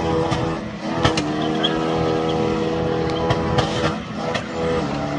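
Nissan's engine running hard at steady high revs, its note breaking briefly about a second in and cutting out shortly before the end, with several sharp clicks over it.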